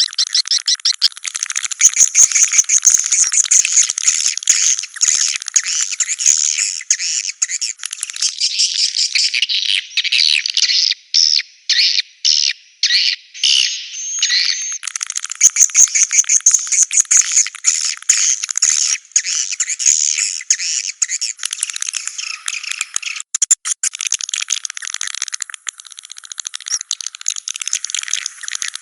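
Swiftlet calls as played in a swiftlet house to lure edible-nest swiftlets: a dense, continuous twittering of many high chirps, broken by a few abrupt short gaps around the middle.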